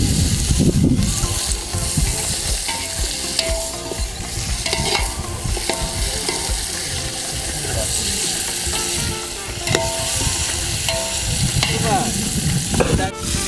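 Chicken pieces with onion and tomato frying in oil in a metal pot, sizzling, while a metal ladle stirs them, clinking and scraping against the pot many times.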